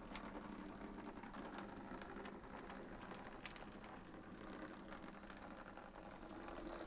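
A model train's small electric motor running faintly with a steady low hum, with light scattered clicks from the wheels running over the track.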